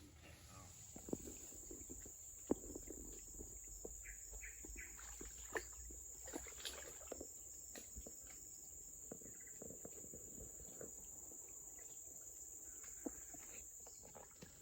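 Steady high-pitched insect drone from the forest, setting in about a second in and holding, with scattered faint knocks and clicks, the sharpest a few seconds in.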